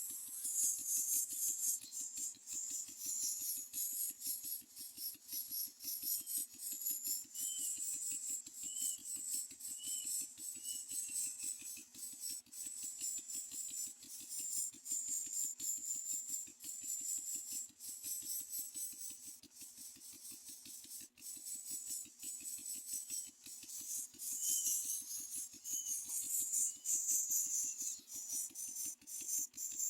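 Steady high-pitched insect chorus, swelling and easing, with a few faint short bird chirps in two runs.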